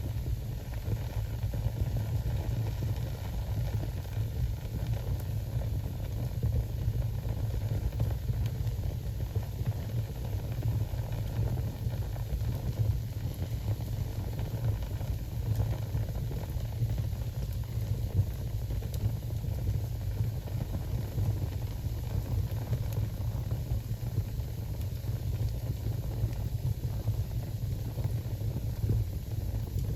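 Wood fire burning in a fireplace: a steady low roar of the flames with small crackles and pops scattered through it.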